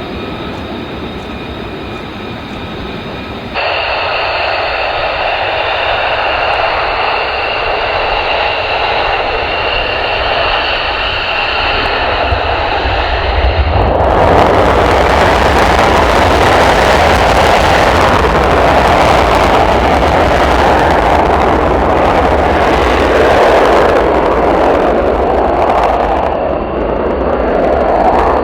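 Jet aircraft engines: a steady high whine that grows louder about 3.5 s in, then from about halfway a much louder, rushing roar with a deep rumble, as the jet powers past close by.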